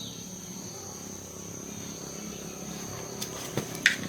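Steady high-pitched insect chirring, like crickets, with several sharp clicks near the end.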